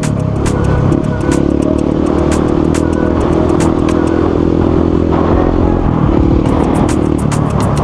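Motorcycle engine running under way, its pitch holding steady with a step change about a second in and another near the end.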